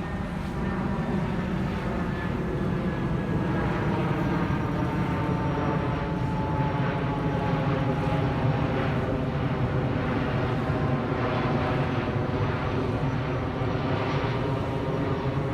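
Boeing 747-400 freighter's four turbofan jet engines running steadily: a loud, continuous rumble with a layered whine whose tones slowly fall in pitch.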